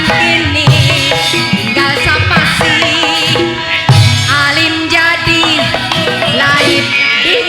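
Live Javanese gamelan music with kendang drum beats and a wavering melody line.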